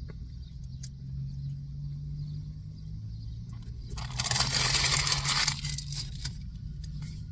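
Paper food wrapper rustling loudly for about a second and a half, some four seconds in, over a steady low hum.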